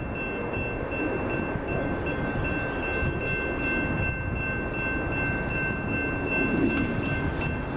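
Train rolling past with a steady rumble of wheels on rails, and a sustained high-pitched squeal, two thin steady tones, held over it until near the end.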